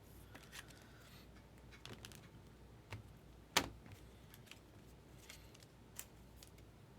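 Baseball trading cards being handled and sorted: quiet sliding with scattered light clicks and taps, the sharpest a little over halfway through.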